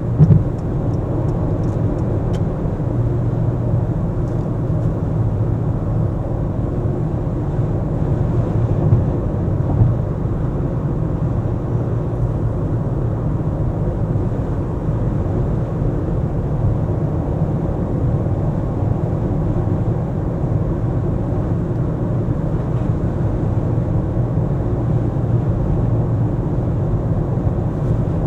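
Car driving in city traffic: a steady low rumble of engine and tyre noise, with a couple of brief bumps, one just after the start and one around ten seconds in.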